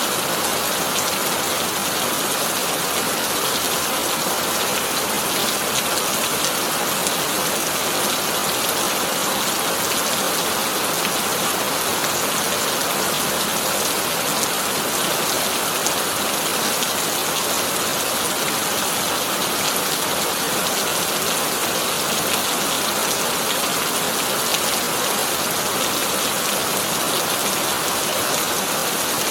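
Heavy rain falling steadily on a corrugated tin roof, a dense, even patter with no break.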